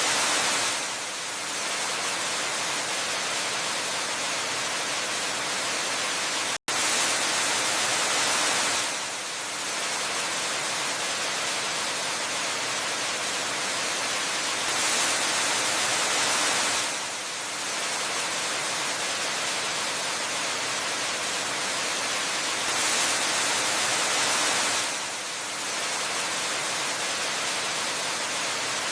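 Steady rushing noise of a waterfall, with a swell and a short dip that recur about every eight seconds. The sound cuts out for an instant about six and a half seconds in.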